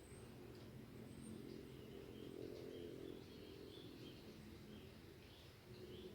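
Faint high chirps of small birds repeating irregularly over a low steady hum.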